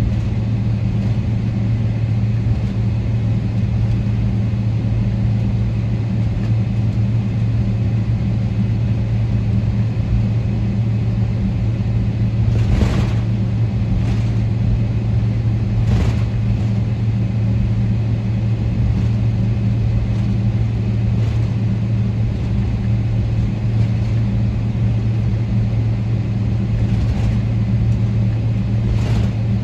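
Steady engine drone and cabin noise inside a Boeing 777-300ER, heard from a passenger seat: a constant low hum from its GE90 engines over a broad rush of air. Two brief knocks come through about 13 and 16 seconds in.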